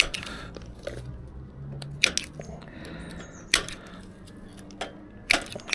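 Plastic cable tie tails being snipped off with a hand cutting tool: several sharp snips, a second or two apart.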